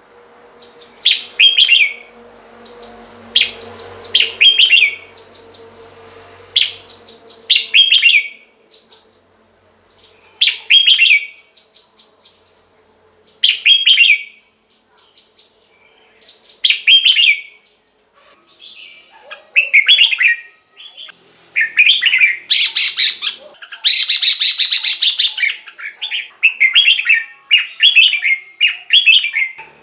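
Red-whiskered bulbul singing: short, bright whistled song phrases about every three seconds, then from about two-thirds of the way through a faster run of phrases with hardly a pause.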